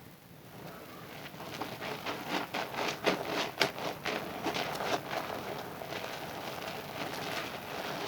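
Wet hands rubbing a bar of Zest soap into lather, with squishing and crackling of suds. The sound is quiet for the first second, builds into a dense run of sharp squelches between about two and five seconds in, then settles into steadier rubbing.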